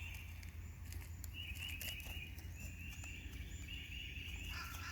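Faint outdoor ambience: a high-pitched, pulsing trill of an animal call starts about a second in and repeats, shifting lower near the end, over a steady low rumble.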